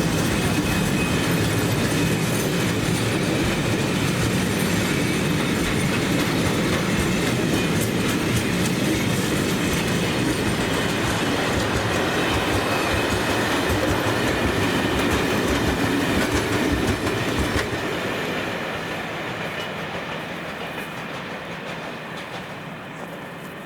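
A train rolling past, with a steady rumble and wheels clicking over the rail joints. About three-quarters of the way through it starts to fade away as it moves off.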